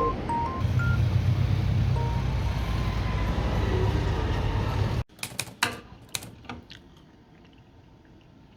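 Steady rumble and hiss of vehicle or street noise, with a few short electronic beeps at the start. It cuts off suddenly about five seconds in, and a few sharp clicks and clatters follow in a quiet room.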